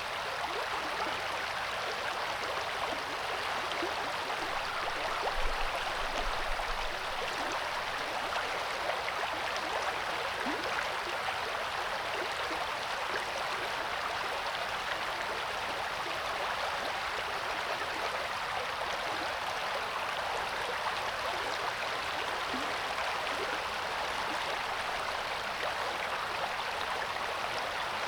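Coeur d'Alene River flowing, a steady rush of water with a brief low thump about five seconds in.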